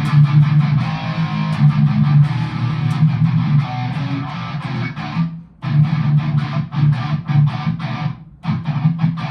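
Distorted electric guitar through a Line 6 Spider IV amp with overdrive and EQ on, playing chugging rhythm riffs in a lightly distorted, fuller tone. The playing stops briefly about five seconds in and again after about eight seconds.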